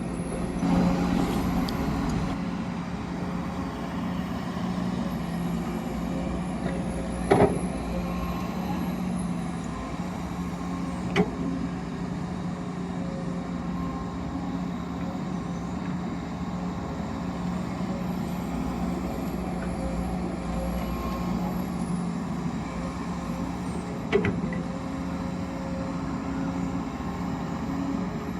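Excavator and hauler truck running with a steady mechanical hum, with three sharp knocks about seven, eleven and twenty-four seconds in.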